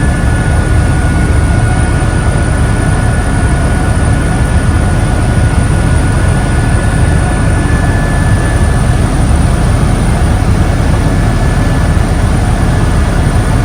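Helicopter in flight: steady, loud rotor and engine noise with thin high whines running through it.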